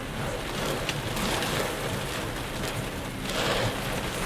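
Heavy rain falling on a moving car and its tyres hissing on the wet highway, heard from inside the car over a low engine hum; the rain noise swells twice.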